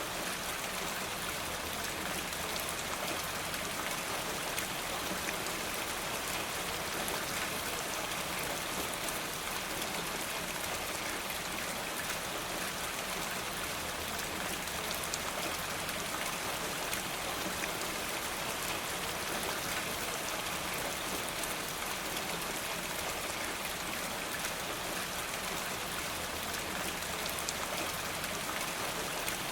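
Steady rain falling, an even hiss dotted with fine drop ticks.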